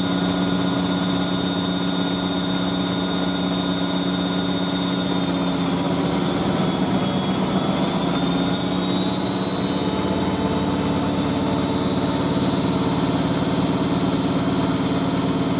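Hoover A3060 Electronic 1100 top-loading-style twin-bearing washing machine in its high-speed spin: the motor whines steadily over the rumble of the spinning drum, the pitch wavering briefly about halfway through before settling.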